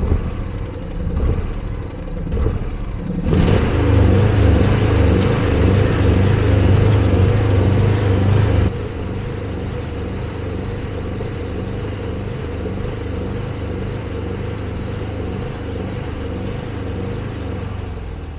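A vehicle's engine running just after starting: it runs harder and louder from about three seconds in until about nine seconds in, then drops to a steadier, quieter run.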